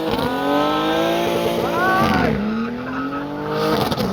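Drift car's engine held at high revs, its pitch climbing steadily and then dropping sharply, twice, with tyres squealing as it slides.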